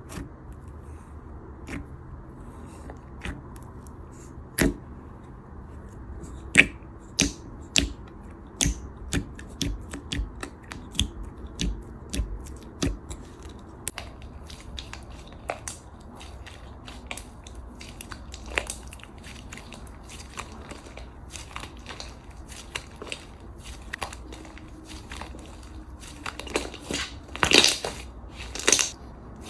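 Irregular sharp crunches and clicks, one after another, with a louder cluster of crunching near the end.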